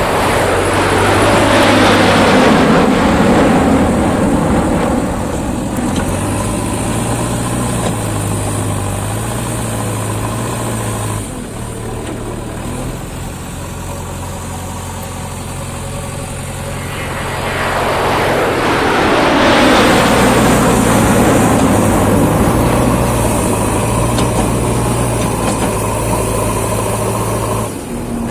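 Diesel engine of a JCB 3DX backhoe loader running steadily. Twice, a vehicle passes close by, about two seconds in and again around twenty seconds in, its noise sweeping down and then back up.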